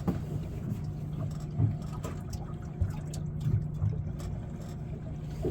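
A steady low motor hum on a fishing boat, with a few short knocks and thuds from handling gear and fish on the boat.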